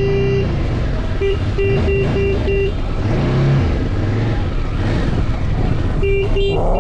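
Motorcycle horn honked in a series of short toots, one quick run of about five a second or two in and another starting near the end, over a motorcycle engine running underneath.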